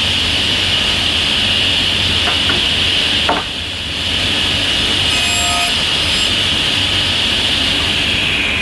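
Electric power tool running steadily while it works wood, with a brief drop in level about three seconds in.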